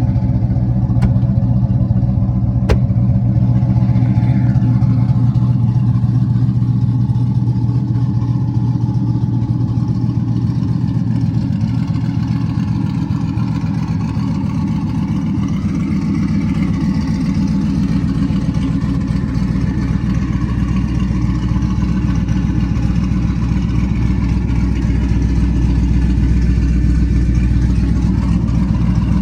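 Twin-turbocharged LS3 V8 of a 1970 Chevelle restomod running steadily at a low, even pitch, with no revving.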